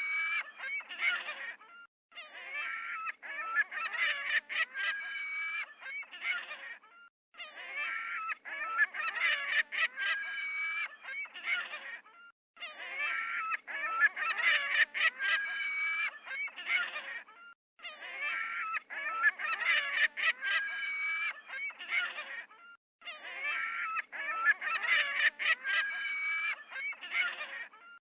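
Geese honking, many calls overlapping, in bursts about five seconds long with short silent gaps between them that repeat at an even spacing.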